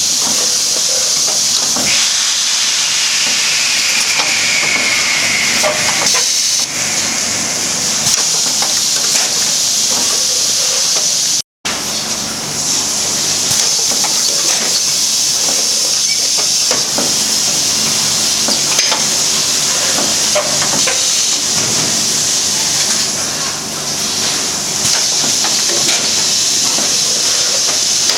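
Automatic vacuum packing machine for tea running: a loud, steady hiss with scattered clicks and knocks, broken once by a short gap about eleven seconds in.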